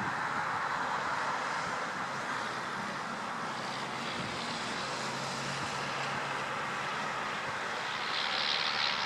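Boeing 777-200ER jet engines on landing approach: a steady rushing noise with a faint low hum in the middle, and a brighter hiss coming in near the end.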